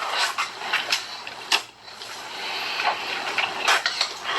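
Close-miked crunching and chewing of Hot Cheetos: an irregular string of sharp, crackly crunches over wet mouth noise.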